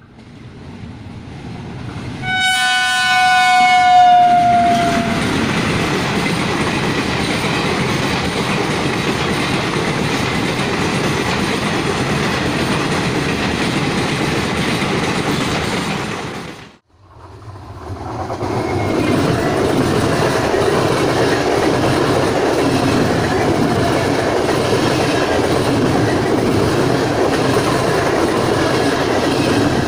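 Train horn sounding one long note about two seconds in, dropping slightly in pitch at its end, as a train of passenger coaches rolls past with clickety-clack of wheels on the rail joints. After a sudden break about 17 s in, an electric multiple-unit local train is heard running past close by.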